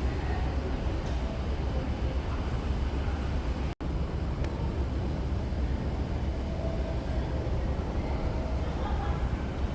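Steady low rumble and running noise of a moving vehicle, with a sudden brief dropout a little under four seconds in.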